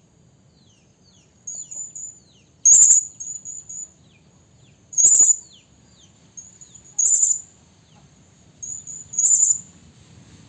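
Serindit (hanging parrot) giving shrill, very high-pitched calls about every two seconds, each loud call followed by a quick run of shorter high notes: a serindit lure call, the female calling for males.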